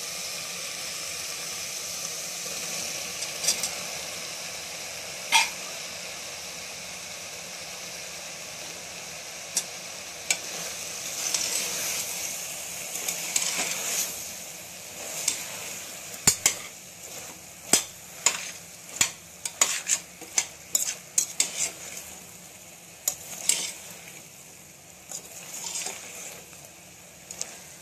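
Soya chunks frying in onion-tomato masala in a pressure cooker, with a steady sizzle. From about halfway, a steel spoon stirring them clinks and scrapes against the pot in many quick, irregular knocks, which are the loudest sounds.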